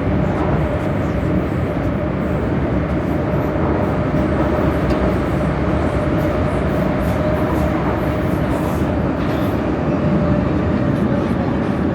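Prague metro line A train, an 81-71M unit, running at speed through the tunnel, heard from inside the car: a steady loud rumble of wheels and running gear with a constant whine held over it.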